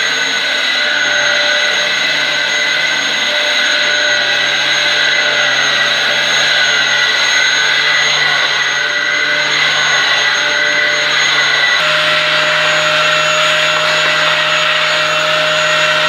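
Dyson DC07 upright vacuum cleaner running steadily on carpet: a loud, even motor whine over a rush of air. About twelve seconds in, its pitch shifts slightly.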